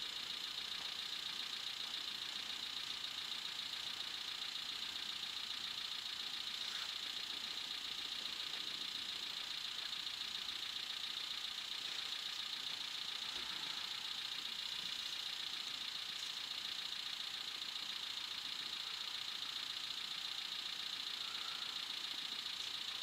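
A steady, even, high-pitched buzz.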